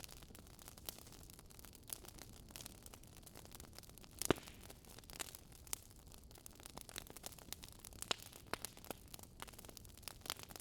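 Wood fire crackling: a soft hiss with irregular pops and snaps, one louder pop about four seconds in.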